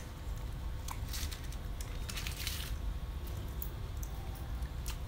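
Close-up eating sounds: biting into and chewing fresh leafy vegetable wraps, with wet squishy mouth sounds and a few crisp crunches, over a steady low hum.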